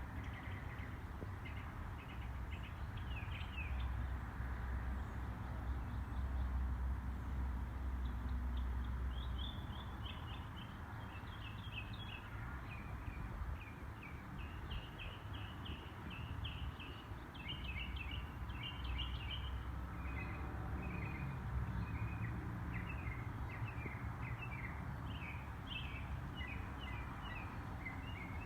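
Birds chirping, with many short chirps and quick trilled runs of notes over a steady low rumble.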